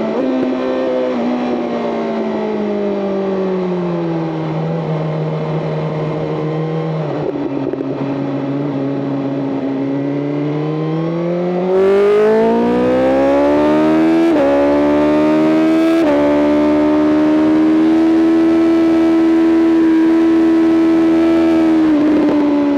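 BMW M 1000 RR superbike's inline-four engine. For about the first ten seconds the engine pitch winds down as the bike decelerates. About twelve seconds in the throttle opens hard and the engine gets louder, revving up through two quick upshifts, then holds a steady high-rev note near the end.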